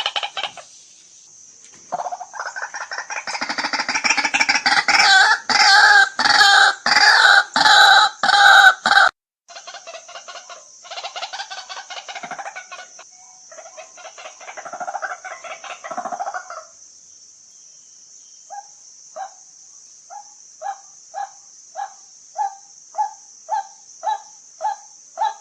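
White-breasted waterhen calling. A loud, harsh chorus of rapidly repeated croaking calls breaks off suddenly about nine seconds in. Softer calls follow, then a steady series of short single notes at about two a second.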